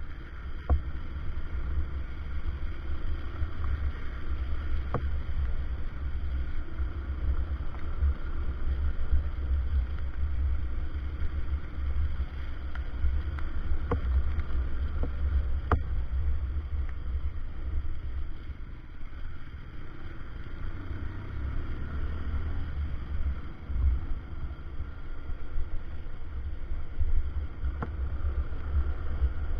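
Motorcycle on the move, with wind buffeting the microphone over a steady low rumble of engine and road noise and a few sharp knocks.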